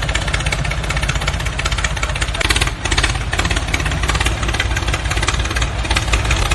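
A small motor running steadily with a fast, even rattle, typical of a DIY model tractor's geared drive.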